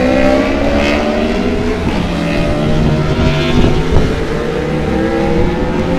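A loud engine running steadily, its pitch slowly rising over several seconds over a low rumble.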